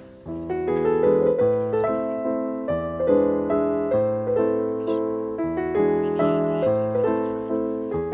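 Background piano music: gentle chords and a melody, each note struck and fading.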